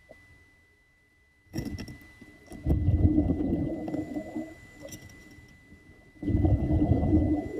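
Muffled water sloshing and gurgling in three surges, the second and third the loudest, over a faint steady high whine.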